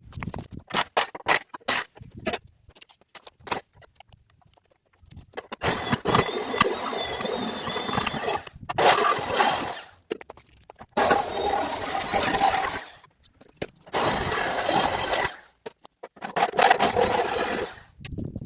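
Reciprocating saw cutting into a car's steel body and frame in several bursts of a couple of seconds each, stopping and starting, after a run of short knocks and clicks in the first few seconds.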